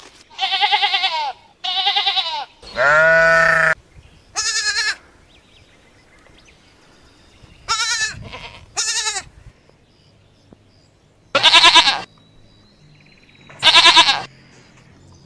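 Goats bleating: about eight separate quavering bleats with pauses between them, one lower and longer about three seconds in.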